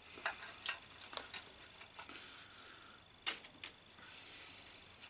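Irregular small sharp clicks and light taps of small parts and tools being handled on a workbench, the loudest click a little past three seconds in, followed by a short rustling hiss.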